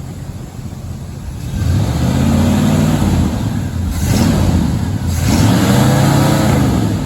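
Chevy 350 V8 in a late-1970s three-quarter-ton pickup pulling under load. The engine picks up about a second and a half in and swells twice, with a short break around four seconds in between, like a gear change.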